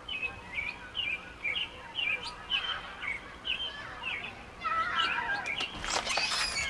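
Nestling songbirds chirping in the nest, short high chirps about twice a second. About halfway through they break into a louder chorus of many overlapping begging calls, as nestlings do when being fed.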